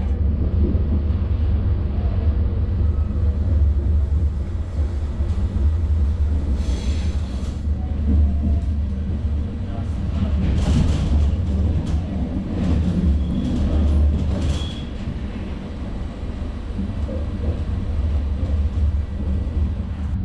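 Loco-hauled Intercity passenger coach running on the rails, heard from on board: a steady low rumble with a few short clicks and squeaks from the wheels and track.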